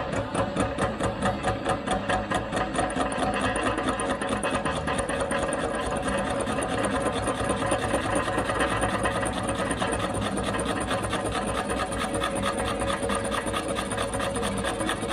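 Portable line-boring machine cutting the weld-built-up kingpin bore of a Scania front axle: a steady metallic scraping as the cutter takes a light cut through the weld, with the boring bar's drive running. A regular pulse of about three a second stands out in the first few seconds.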